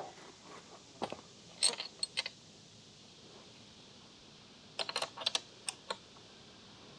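Sharp metallic clicks and clinks of a socket wrench being worked on a motorcycle bolt, in three short clusters.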